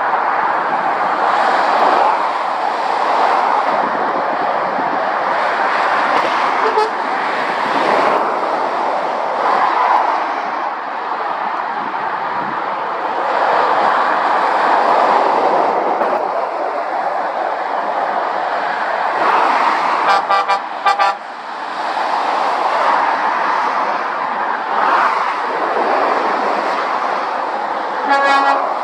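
Motorway traffic at speed, lorries and cars passing one after another with tyre and engine noise swelling and fading. A vehicle horn gives a few short toots about two-thirds of the way through, and again briefly near the end.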